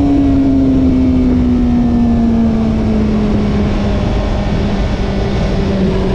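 Honda CBR1000RR-R SP's inline-four engine running, its pitch falling slowly and steadily.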